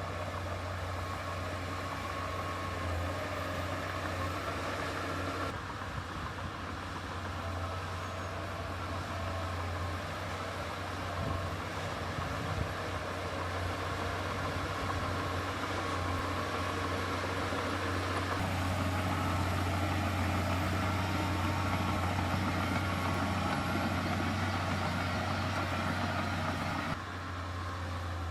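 Heavy diesel earthmoving machinery running steadily with a deep engine hum. The sound changes abruptly about six seconds in and again about eighteen seconds in.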